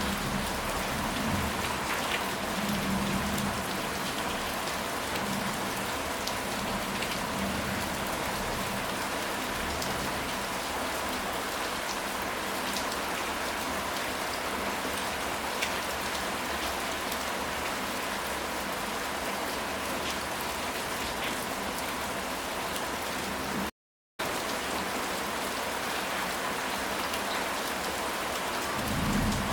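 Steady rain falling on a surface, with scattered individual drop ticks. A low rumble of thunder fades over the first few seconds and returns near the end. The sound cuts out completely for a split second about three-quarters of the way through.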